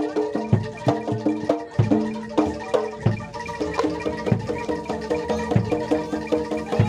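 Live Javanese gamelan music: metal mallet instruments playing a busy repeating pattern over hand-drum strokes at a steady beat.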